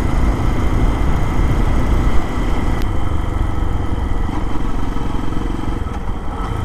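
Lifan KPX250's single-cylinder four-stroke engine running steadily while riding along at low speed, with wind noise over the microphone. A single sharp click about two seconds in.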